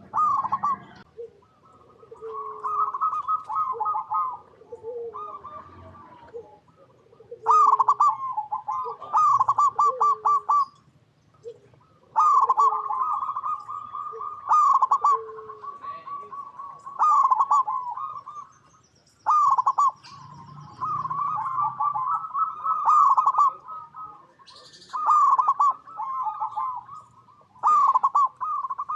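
Zebra doves (perkutut) cooing: repeated bouts of quick, rippling staccato coos, one after another with short pauses, with faint high chirps over them.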